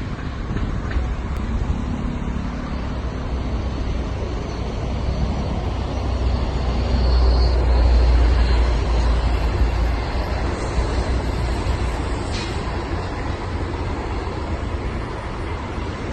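Road traffic rumbling steadily, swelling as a vehicle passes about halfway through and then fading.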